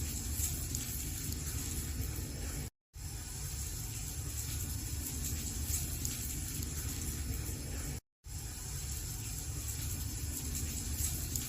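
Wood fire burning in a fireplace, a steady hiss with small crackles of burning wood. The sound cuts out completely for a split second twice.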